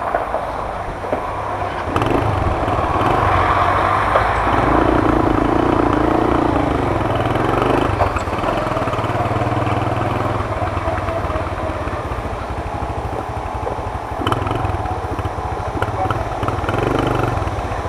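Small Storm Indigo moped engine running under way, getting louder about two seconds in, with its pitch rising and falling as it accelerates and eases off.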